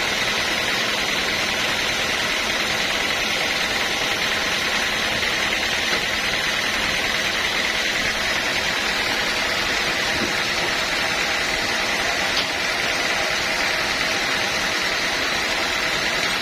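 Sawmill machinery running steadily: a constant mechanical drone with a steady high-pitched tone over it.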